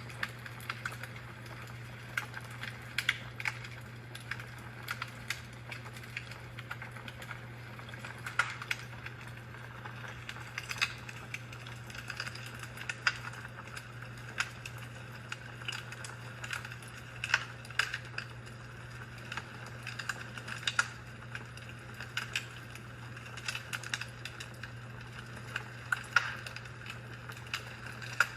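Fireplace fire crackling: irregular sharp pops and snaps, several a second, over a soft hiss, with a steady low hum underneath.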